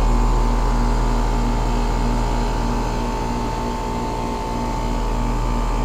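2001 Trane XE1000 Weathertron heat pump outdoor unit running in heating mode: steady compressor and condenser-fan hum with a steady high tone and a pulsing lower tone, while its outdoor coil tubing frosts over.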